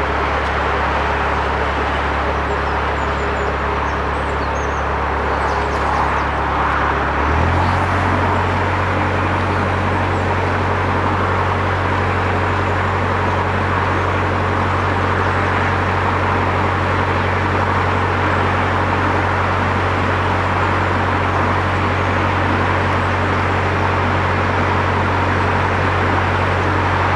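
Narrowboat's diesel engine running steadily under way, its low hum stepping up in pitch about seven seconds in as the revs are raised, then holding at the higher speed.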